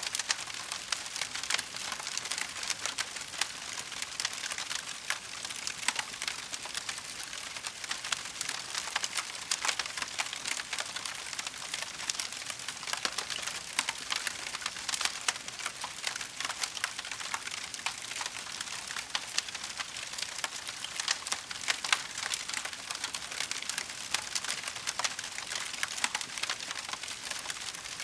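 Wood fire crackling, a dense steady stream of small pops and snaps from burning logs, with the odd louder crack.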